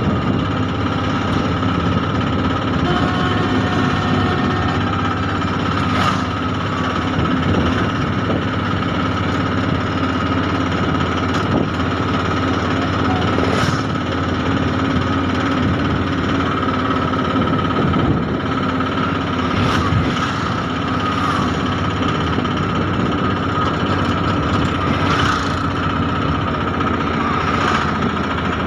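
Train running: a steady rumble with a constant whine, broken by a few sharp clacks.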